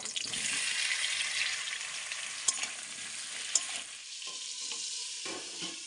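Cubed raw potatoes tipped into hot oil in a metal wok, sizzling and frying; the sizzle is strongest at first and slowly dies down, with two sharp clinks of metal about a second apart midway.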